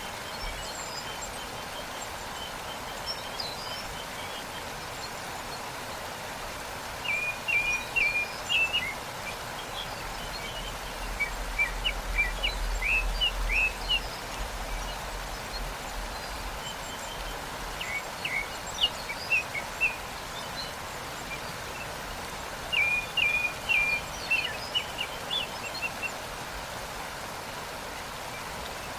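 Steady rushing of a waterfall, with small birds chirping in short bursts of quick notes four times over it.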